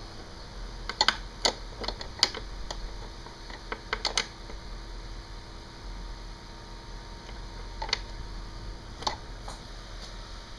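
A scattered series of sharp clicks and knocks, several close together about a second in, a quick cluster around four seconds, and single ones near eight and nine seconds, over a steady low hum.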